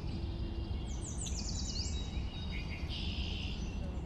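Birds chirping: a quick run of high sweeping chirps about a second in, then a short buzzy trill near three seconds, over a steady low background rumble.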